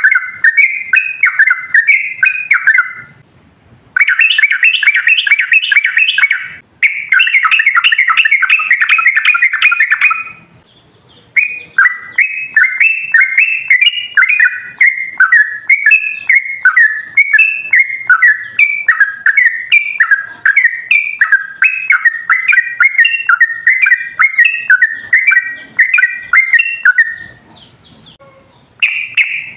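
Yellow-vented bulbul (trucukan) singing long, rapid runs of bubbly chirping notes, with short pauses of about a second a few seconds in, around ten seconds in and near the end.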